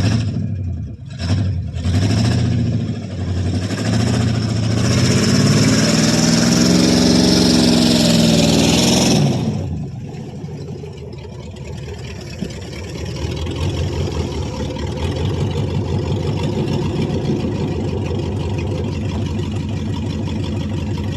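Ford 5.8-litre (351) V8 of a 1995 F150 revved hard under load, its pitch climbing for several seconds under a loud hiss. Just over nine seconds in it drops off abruptly to a lower steady run, and the revs slowly build again near the end. The owner says the engine has a couple of cylinders that don't fire.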